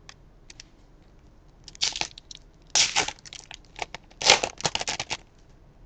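Trading card pack wrapper being torn open and crinkled, in three rough bursts of tearing and rustling after a few light clicks.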